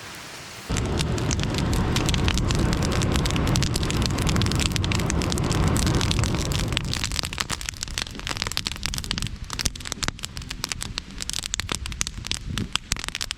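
Campfire crackling with many sharp pops. A loud low rumble starts suddenly about a second in and dies away after about six seconds, leaving scattered pops.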